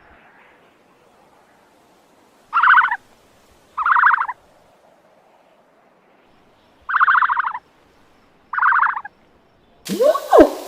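An animal calling: four short buzzy calls spaced a second or more apart. Near the end, a different call with sweeping pitch begins.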